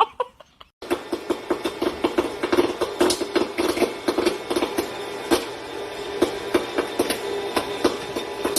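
A small motor running with a steady hum and rapid, irregular clicking, starting about a second in.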